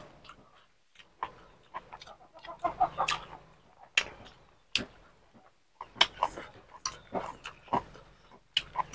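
Chewing and lip-smacking of a man eating fried pork and rice with his fingers: short wet clicks and smacks at irregular intervals, with fingers picking at the food on the plate near the end.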